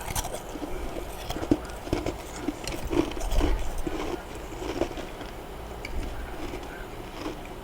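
Freezer frost being chewed in the mouth: irregular crunches about two a second, with a few sharper clicks.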